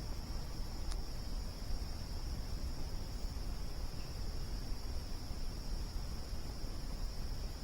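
Crickets chirring in a steady, continuous high chorus over a low, even background noise, with a single sharp pop from the campfire about a second in.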